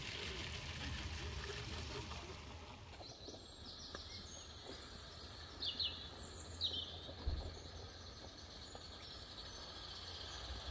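Steady outdoor background hiss, with a few short bird chirps a little past the middle.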